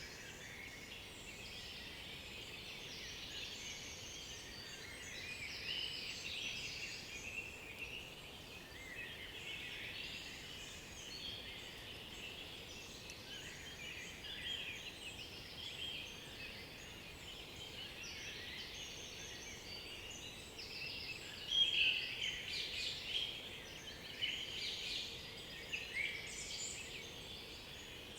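Chorus of several songbirds singing at once, many short high phrases overlapping throughout, with a few louder songs standing out about three quarters of the way through.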